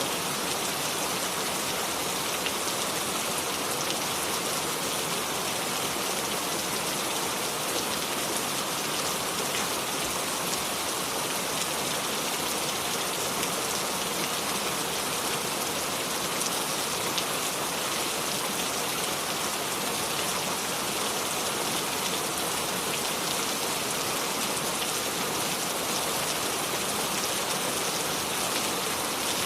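Steady rain without thunder, an even hiss with fine pattering of drops.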